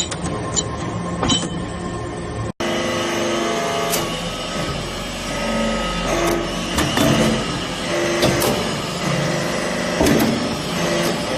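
Industrial machinery running with scattered metallic clinks and knocks: an automatic metal-chip baler at work. The sound cuts out briefly about two and a half seconds in, then resumes as a steadier machine noise with a low hum and short held tones.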